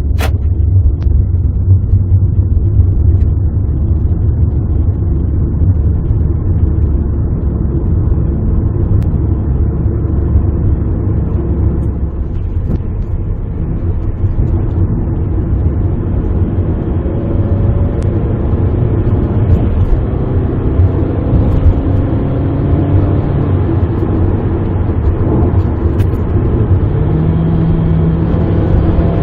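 A Toyota Estima's 2.4-litre four-cylinder engine running through an aftermarket muffler, with a steady low exhaust rumble. In the second half its pitch rises in a few stretches as the engine revs climb.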